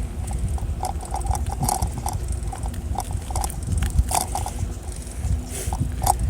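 Bicycle riding noise: a steady low rumble of wind on the microphone, with irregular small clicks and squeaks from the moving bicycle.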